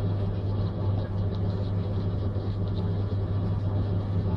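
A steady low hum under an even rumbling noise, unchanging throughout.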